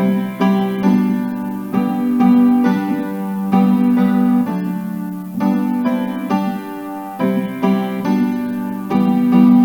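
Piano playing a hymn in full chords, struck at a steady, even pace and held between strikes.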